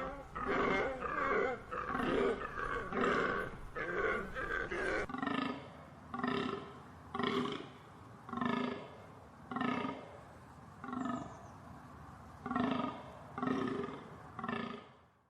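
Deer calling: a long series of short, hoarse, repeated calls, about one and a half a second at first, then slightly spaced out with a few pauses after a change in background about five seconds in.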